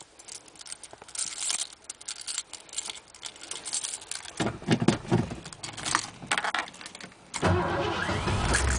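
Keys jangling at the ignition of a 1987 Ford F350, then, about seven and a half seconds in, its 351 Windsor V8 fires right up on a very cold start and keeps running.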